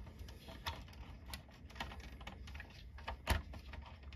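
Light plastic clicks and taps of a vintage G.I. Joe action figure being fitted into the seat of a plastic toy tank, with one louder knock about three seconds in.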